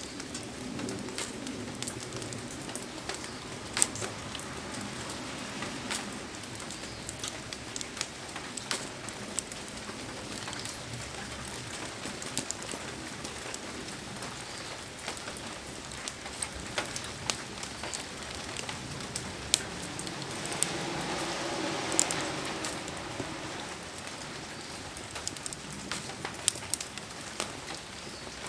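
Heavy rain falling steadily, dotted with many sharp ticks and pops, and swelling briefly about two-thirds of the way through.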